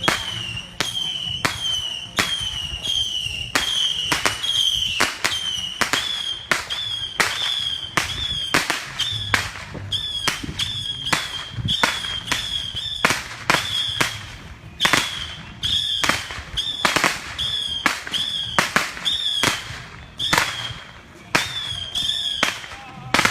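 Fireworks going off in rapid succession, sharp bangs about two a second, each followed by a short high whine that drops in pitch.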